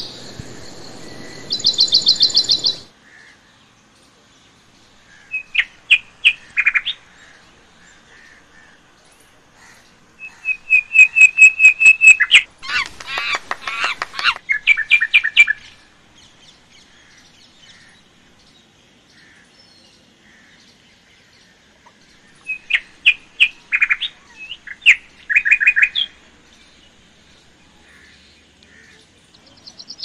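Small birds chirping in bouts of rapid, repeated high notes. The longest and loudest bout comes about halfway through, with quiet stretches between the bouts.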